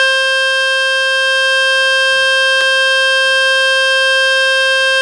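A loud, steady buzzing tone with many overtones from the Fix My Speaker website, played on a phone to shake dust and water out of its speaker. Two faint ticks sound partway through.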